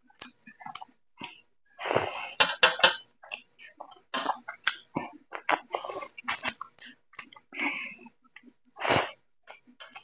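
Wet open-mouth chewing and lip smacking of a man eating rice and spicy chicken curry by hand, close to the microphone: many quick smacks and clicks, with a few longer, louder hissing bursts in between.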